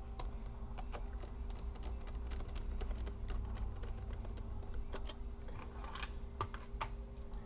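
Scattered small clicks and taps of laptop parts being handled during reassembly, with a quick run of louder clicks about two-thirds of the way through.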